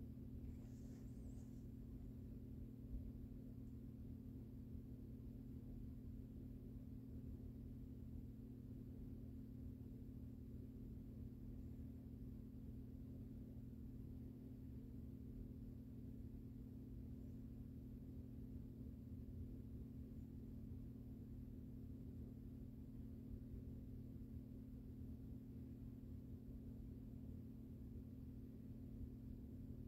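Harbor Breeze Wheatland ceiling fan running, its motor giving a faint, steady low hum.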